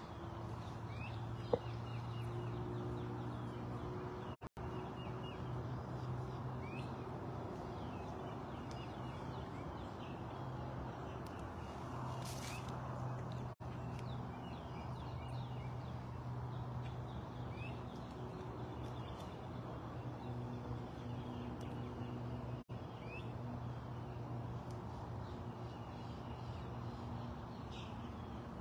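Outdoor ambience: a steady low hum runs throughout, and a bird gives a short high chirp every couple of seconds.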